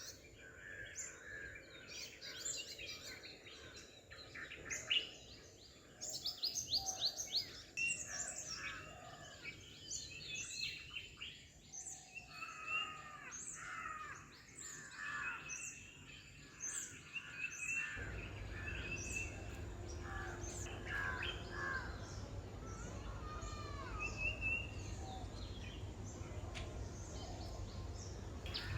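Many small birds chirping and singing, their short calls and trills overlapping. About two-thirds of the way through, a low steady rumble joins underneath.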